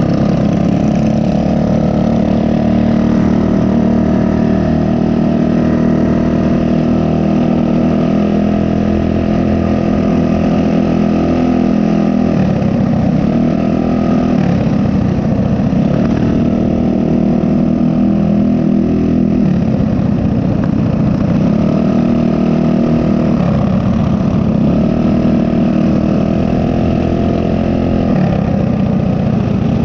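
Small single-cylinder four-stroke mini bike engine running under way. Its pitch holds steady at first, then from about twelve seconds in it dips and climbs back several times as the throttle is let off and reopened.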